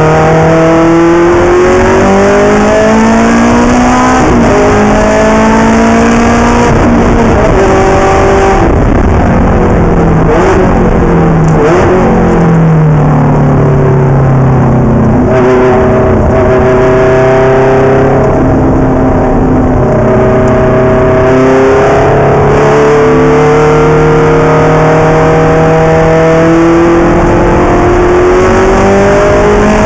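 Ferrari race car engine, loud throughout, its pitch climbing through the gears and dropping at each shift. Its pitch falls for a few seconds about ten to thirteen seconds in, then holds steadier and slowly rises.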